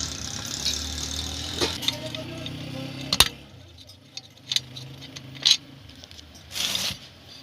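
Hand tools clicking and knocking on a dryer motor as it is taken apart: a sharp knock about three seconds in, a few lighter clicks after it, and a short rushing noise near the end.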